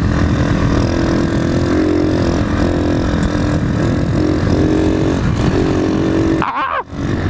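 Motorcycle engine running steadily under way on a dirt track, with a dense rumble of engine and road noise.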